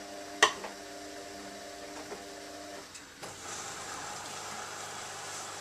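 Bosch Exxcel dishwasher filling with water at the start of its intensive cycle: a steady machine hum with a sharp click about half a second in. About three seconds in the hum stops, and a steady hiss with a lower hum takes over.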